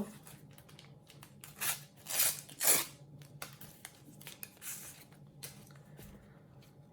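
Sticker packet and stickers being handled: a few papery rustling, tearing scrapes, the strongest about two seconds in, with light clicks in between.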